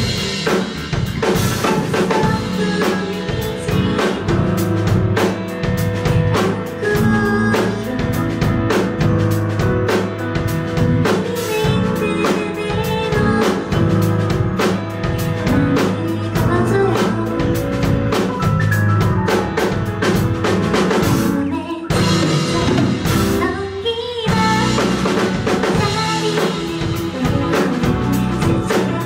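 Live band playing a song, with drum kit, bass, guitar and singing. The music breaks off briefly about 22 seconds in, then comes back in.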